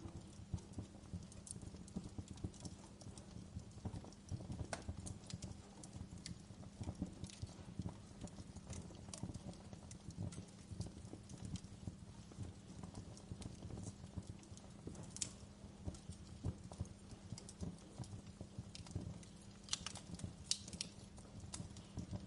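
Wood fire crackling: dense, irregular pops and snaps over a low, steady rumble of burning, with a few sharper pops near the end.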